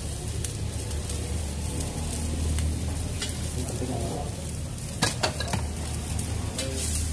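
Noodles, egg and meat frying in a wok over a gas flame: a light steady sizzle over a low, even rumble. A couple of sharp knocks come about five seconds in.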